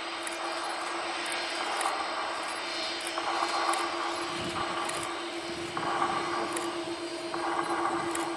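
Jet airliner engines running with a steady whine over a broad rush of engine noise.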